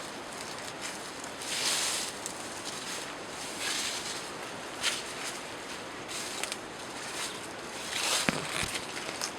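Outdoor ambience: a steady hiss with soft rustling that swells briefly every second or two.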